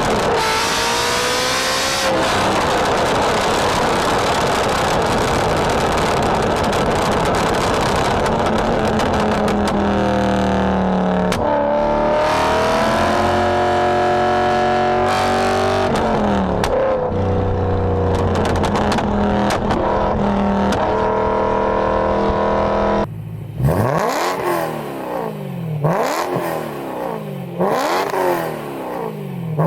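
BMW E9X M3's S65 V8 through an aftermarket exhaust, accelerating hard through the gears, its pitch climbing in each gear and dropping at every shift. Near the end the clip changes to an M3 being revved, about four blips that rise and fall.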